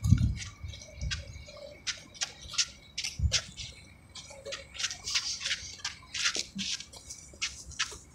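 Birds chirping and squawking in quick, irregular calls, several a second, over a faint low rumble.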